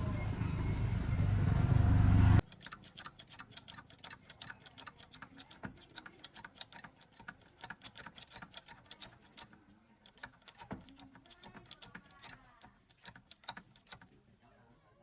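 A loud rumbling machine noise swells for about two seconds and then cuts off abruptly. Quick, light metallic clicks and taps follow, the sound of hand work on tractor parts with tools.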